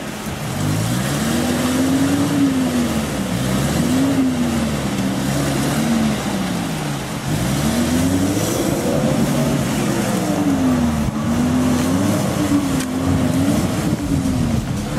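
Opel Frontera's engine revving up and dropping back again and again under load, as the 4x4 tries to drive out of a stream it is stuck in.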